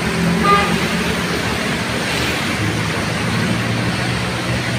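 Heavy rain hissing steadily over a large vehicle's engine running, its low note deepening about two and a half seconds in. A brief high tone sounds about half a second in.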